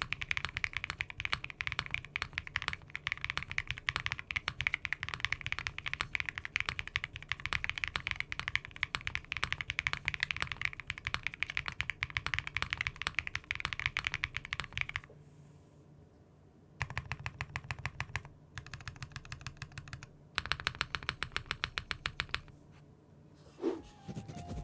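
Mechanical keyboard with Cherry-profile keycaps being typed on fast for about fifteen seconds. After a short pause come three short bursts of rapid, evenly spaced key presses, and a brief tone near the end.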